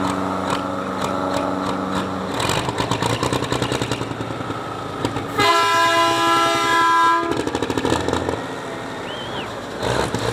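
Engines running at a pulling track, going from a steady idle into a fast clatter after about two seconds. In the middle comes a loud horn blast of about two seconds, several steady tones sounding together like a multi-chime air horn.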